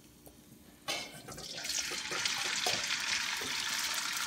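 Hot oil in a wok starting to sizzle as fresh noodles drop in about a second in, quickly building to a steady, crackling frying sizzle.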